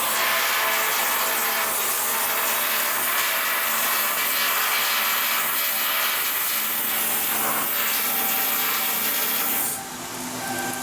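Steady noise of power-tool steelwork in a shipyard, with a faint steady hum underneath. It drops off abruptly near the end.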